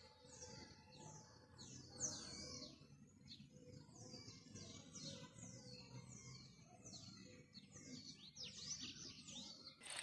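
Faint bird song: a rapid series of short, high notes, each sliding downward, about two a second, with one louder note about two seconds in.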